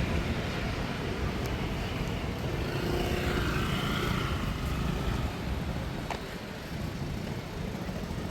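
An engine passes, swelling and fading near the middle, over a steady low rumble of outdoor background noise.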